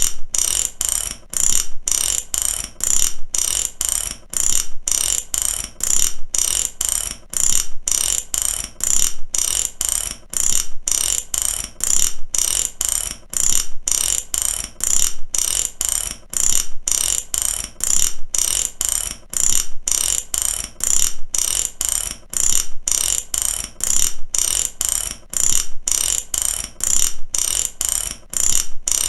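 Mechanical ratchet clicking: the pawl snapping over the toothed wheel in a steady, even run of sharp clicks, stroke after stroke with short gaps between.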